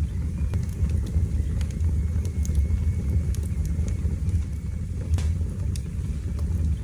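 Wood fire burning in a fireplace: a steady low rumble of the flames with scattered sharp crackles and pops of burning wood.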